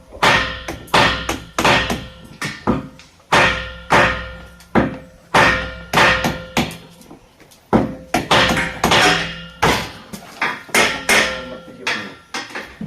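Repeated hammer blows, about two a second in an uneven rhythm, each strike ringing briefly with a metallic tone.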